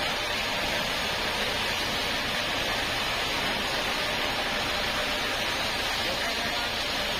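Sawmill machinery running steadily, a constant hissing noise with faint humming tones under it.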